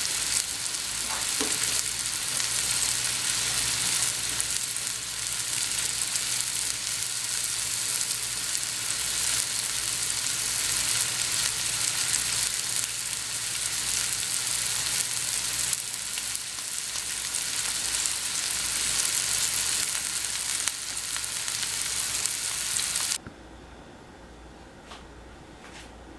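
Chuck roast sizzling as it sears in hot olive oil in a skillet: a steady frying hiss that cuts off suddenly near the end.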